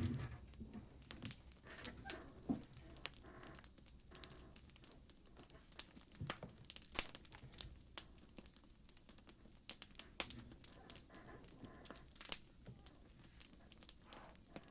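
Wood fire crackling: irregular sharp pops and snaps, a few every second, over a faint low hiss, with a brief low rumble at the very start.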